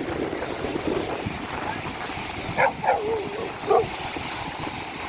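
Sea waves and wind making a steady rushing wash. A few short cries break in between about two and a half and four seconds in.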